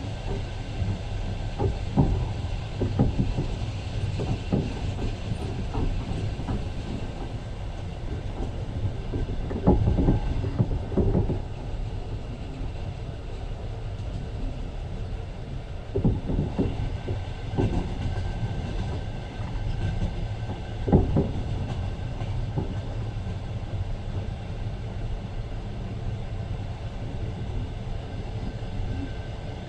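Passenger train running, heard from inside the carriage: a steady low rumble of the wheels and carriage, with clusters of clacking as the wheels pass over rail joints every few seconds.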